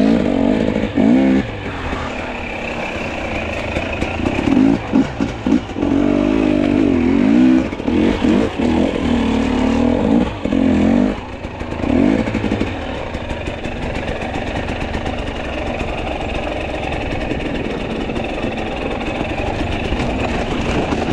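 Two-stroke enduro dirt bike engine revving up and down in repeated bursts as it is ridden on the trail, then running more steadily for the second half.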